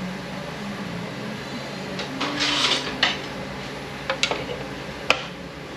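Metal transmission parts being handled on the bench: a short scrape about two seconds in, then several sharp metallic clicks and taps. A steady hum runs underneath.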